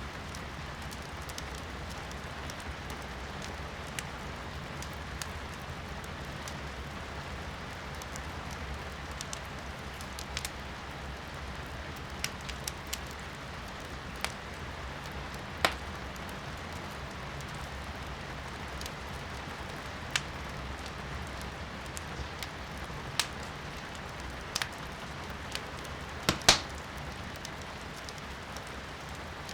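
Firewood burning in a fireplace, crackling with scattered sharp pops, the loudest about halfway and near the end, over a steady hiss of rain heard from inside the room.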